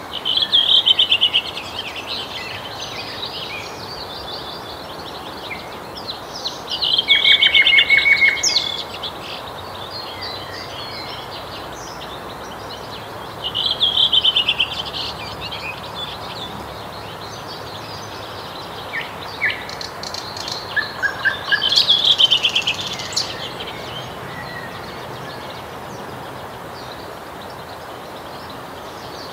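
Nightingale singing: about four loud phrases of rapid repeated, trilled notes, separated by pauses of several seconds, over a steady background hiss.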